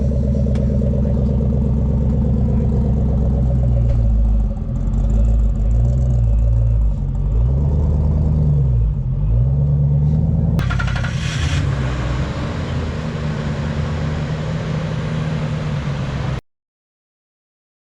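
Classic American car engine idling, then blipped several times between about 4 and 10 seconds in, its pitch rising and falling with each rev, before settling back to a steady run. A short rattling burst comes about halfway through, and the engine sound stops abruptly near the end.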